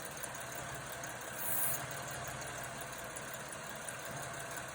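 A 2004 Pontiac Grand Am's 3.4-litre V6 idling steadily. About a second and a half in comes one short hiss of brake cleaner, sprayed at the base of a leaking EGR valve.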